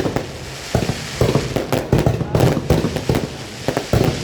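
Fireworks going off at close range: rapid volleys of sharp pops and crackles in repeated bursts, with short lulls between them.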